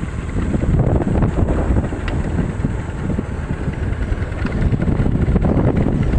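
Wind buffeting the microphone: a loud, gusty low rumble that swells and dips throughout.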